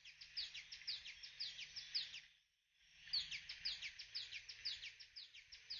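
A small bird singing: two runs of quick, high, descending chirps, about five notes a second, each run lasting about two and a half seconds, with a brief pause between them.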